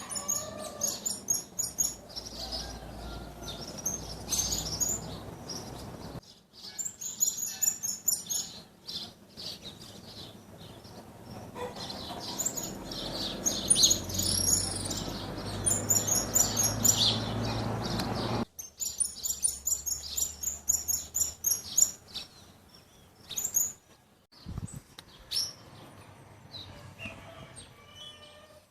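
Wild songbirds chirping and singing in quick runs of high notes, in separate recordings that change abruptly about six and about eighteen seconds in.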